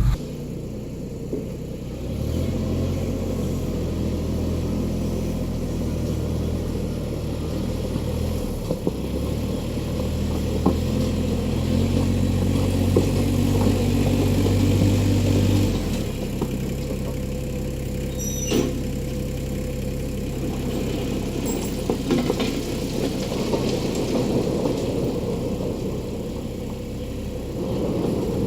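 Ford E-350's 7.3 Powerstroke turbo-diesel V8 running at low speed while maneuvering a loaded gravel trailer, the engine note stepping up and down with the throttle. It revs higher from about 12 to 16 s, then drops back, with a couple of light clicks later on.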